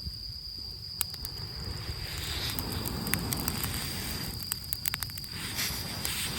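Small campfire of rain-soaked wood crackling with scattered sharp pops, the wood still drying as it burns. A steady high-pitched tone runs underneath, and a soft rushing hiss swells up twice.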